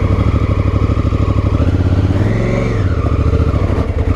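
2018 Honda Africa Twin's 998 cc parallel-twin engine running under throttle as the bike pulls away, its revs rising and dipping a couple of times.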